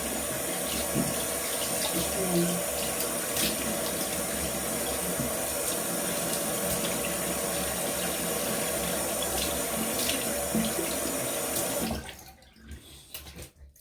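Tap running into a sink while a face is washed with soap, a steady rush of water with small splashes; the water shuts off abruptly about two seconds before the end.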